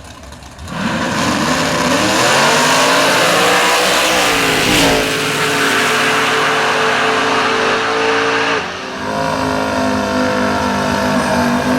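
Drag race car launching and running at full throttle down the strip. The engine note climbs and breaks twice, about five seconds in and near nine seconds, as it shifts gears.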